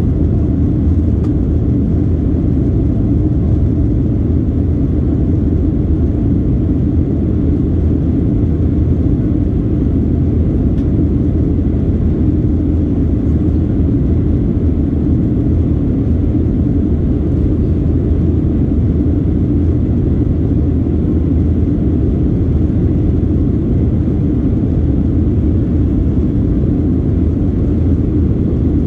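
Passenger airliner in flight: the engines and rushing air make a steady low rumble that holds an even level, with no change or separate events.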